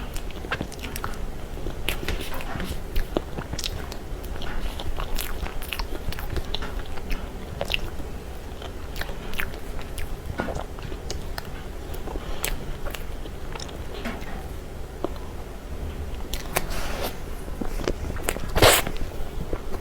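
Close-up eating sounds of a person chewing soft cream cake, with many small irregular clicks. One louder, noisier sound comes near the end.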